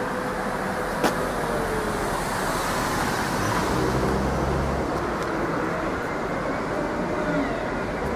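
Road traffic: a steady wash of car engine and tyre noise, with a sharp click about a second in.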